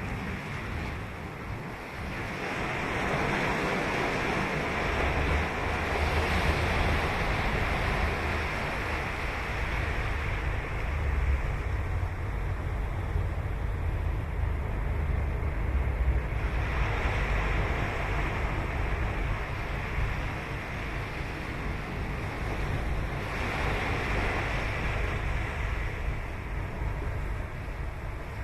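Ocean surf breaking and washing ashore, a steady rush of noise that swells up three times as waves come in.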